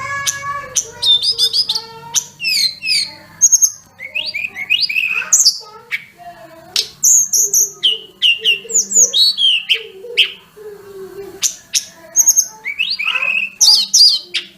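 Tledekan gunung (sulingan gunung) songbird singing a rapid, varied song of clear flute-like whistles, trills and rising and falling glides, with mimicked phrases mixed in.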